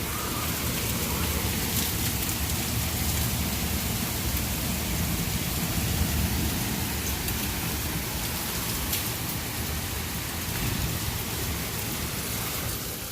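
Heavy rain pouring down in a sudden storm, a steady hiss throughout, with wind rumbling against the microphone.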